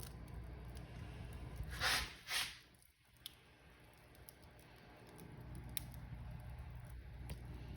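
Wood fire burning in a fireplace: a steady low rumble with scattered crackles and pops, and two louder hissing crackles about two seconds in. The sound briefly drops away around three seconds, then builds back up.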